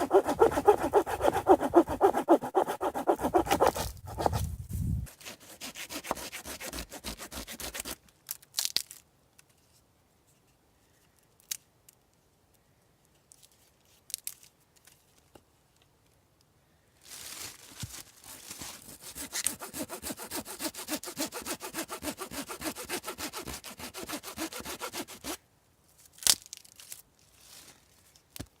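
Hand saw cutting dead wood in quick back-and-forth strokes, in two spells: one at the start and another, longer one in the second half, with a quiet gap broken by a few knocks between them.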